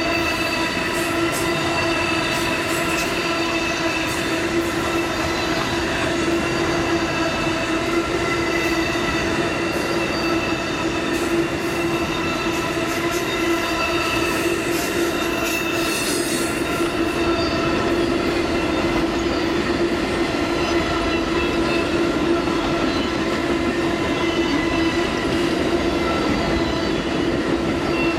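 Cars of the Amtrak Auto Train rolling past at speed, with a steady high-pitched squeal from the wheels and scattered clicks over the rail joints.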